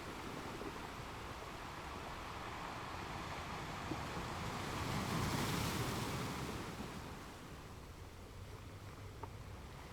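Ocean waves breaking on a shore, a steady wash of surf that swells into one louder crash about halfway through, then recedes.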